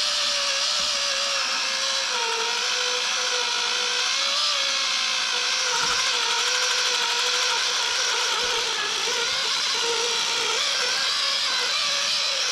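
Kimo 20V cordless polisher running steadily as it buffs compound into plastic: a constant motor whine whose pitch wavers and dips slightly.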